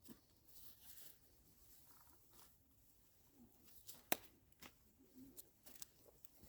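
Near silence with a few faint clicks and short rustles, and one sharper click about four seconds in.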